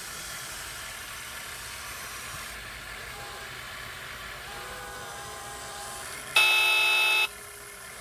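Sound module of a 1/14 scale RC truck: a steady hiss, then one loud, steady truck air-horn blast lasting about a second near the end.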